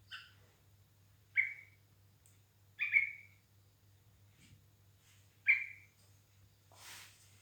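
Yellow-vented bulbul giving short, sharp calls: three clear ones a second or two apart and a fainter one at the start, over a faint steady hum.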